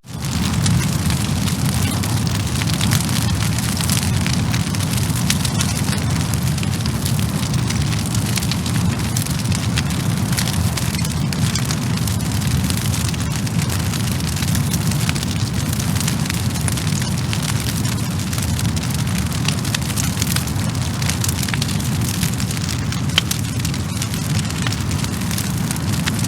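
Wood fire crackling: dense small pops and snaps over a steady low rumble of the flames, with one sharper pop near the end.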